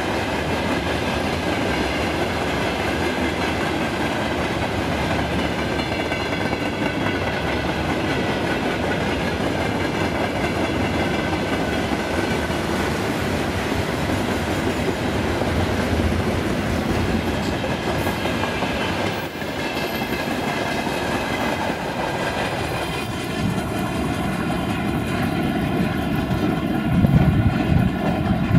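Freight wagons (hoppers and tank-container flats) rolling by at speed with a steady rumble and wheel clatter. In the last few seconds, as the end of the train pulls away, a steady humming tone comes through and there are a few louder low knocks.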